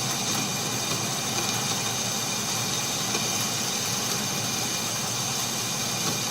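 Atlas metal lathe running at a raised spindle speed while a small boring bar cuts inside the bore: a steady machine running noise with a constant high whine.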